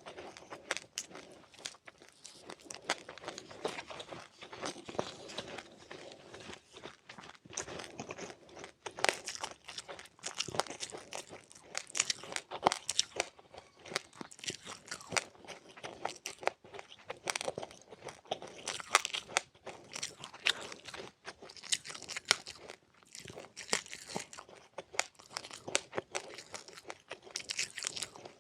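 A person crunching and chewing seeds close to the microphone: a dense, irregular run of sharp crackles with no steady rhythm.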